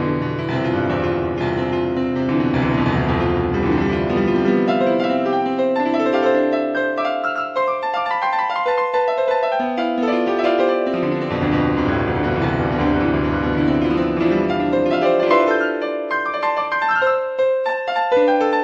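Background piano music: slow chords with sustained low bass notes and a melody above, in a phrase that repeats about every eight seconds.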